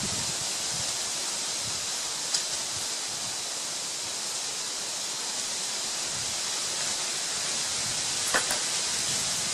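Steady hiss with a short click about two seconds in and a few small clicks near the end, from a 10-24 screw, washer and nut being fitted into PVC pipe fittings by hand.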